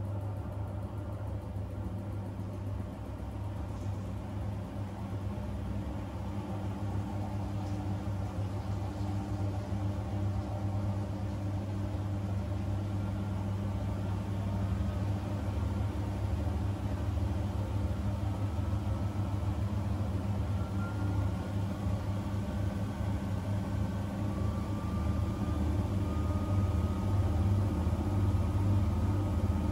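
Front-loading washing machine running, its hum growing steadily louder, with a faint whine that rises in pitch in the second half as the drum speeds up.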